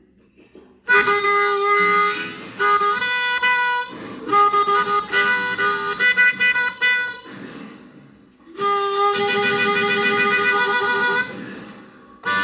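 A harmonica playing an instrumental phrase of several-note chords in short bursts with brief gaps, then a long held chord near the end.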